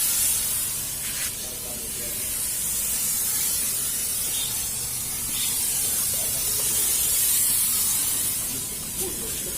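Thermal fogging machine running steadily: a loud, even hiss with a low rumble underneath.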